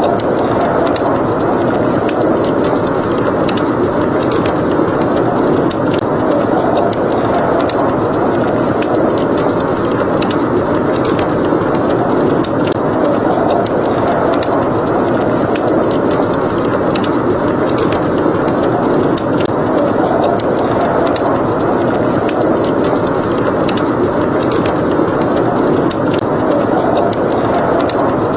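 Steady blizzard wind noise, with a wood fire crackling over it in many small, sharp pops.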